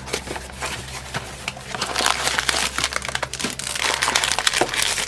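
Plastic blind-bag packaging crinkling and crackling as it is handled, busier and louder from about two seconds in.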